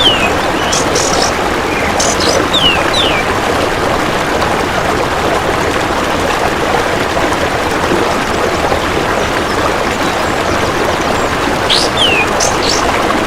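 Steady rushing water noise with sparse bird calls over it: a few short calls sliding downward in pitch and brief high chirps, clustered near the start and again near the end.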